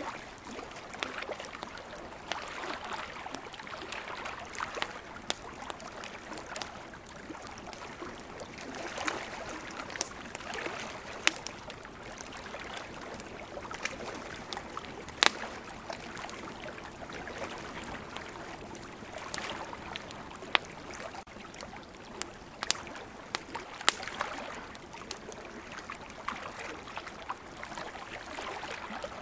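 Wood campfire crackling, with scattered sharp pops, over the washing of ocean waves that swell and fade.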